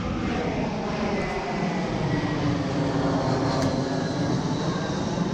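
Airplane flying low overhead: steady engine noise with whining tones that drift slowly down in pitch.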